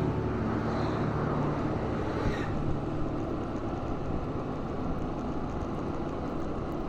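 Steady wind rush and road noise from riding along on a bike. Faint background music fades out over the first few seconds.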